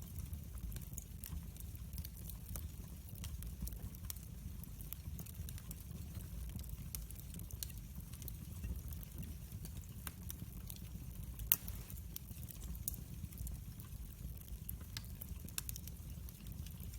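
Wood fire burning in a fireplace: a low steady rumble with frequent small crackles, and one sharper pop a little past the middle.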